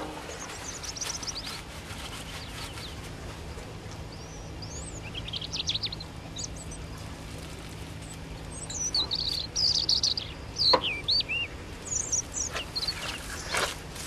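Small birds chirping in quick runs of short high calls, starting about a third of the way in, over a faint steady low hum, with two brief knocks near the end.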